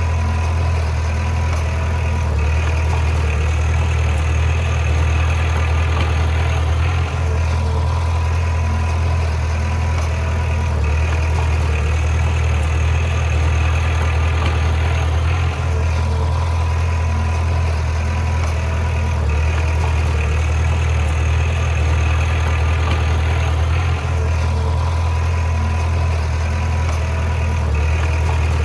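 Bulldozer's heavy diesel engine running steadily with a deep, even hum.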